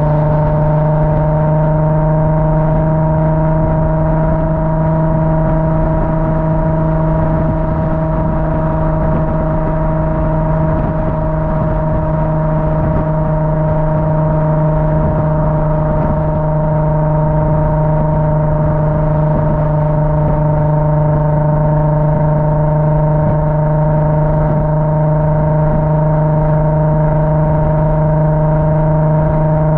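Car engine running at a steady speed, a held drone with several steady tones above it whose pitch drifts only slightly.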